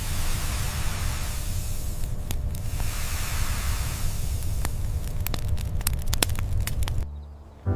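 Steady hissing noise with a low rumble and scattered sharp crackles, cutting off suddenly about seven seconds in.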